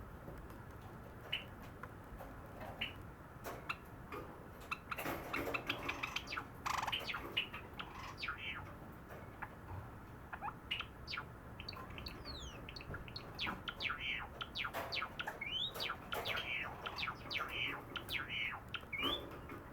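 Pet cherry-blossom Java sparrow singing: a string of quick clicks and short chirping notes. It starts sparse, grows busy about five seconds in, and is busiest again through the second half.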